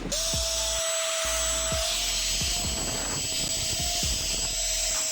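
Steady engine noise with a constant mid-pitched tone and a high whine, starting abruptly just after the start, with scattered low thumps underneath.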